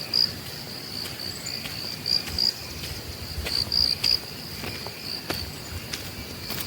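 Insects trilling in a steady high-pitched chorus that swells in short pulses, with a few scattered clicks.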